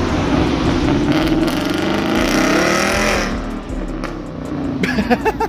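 Performance car engine and exhaust accelerating hard, rising in pitch, then easing off about three seconds in.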